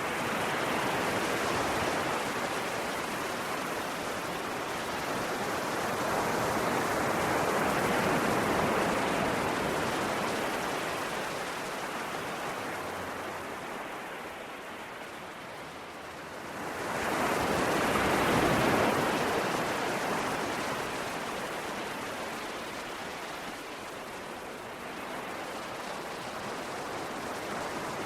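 Ocean waves washing in, in slow surges that swell and fade over several seconds each. The biggest surge rises sharply about seventeen seconds in and then slowly dies away.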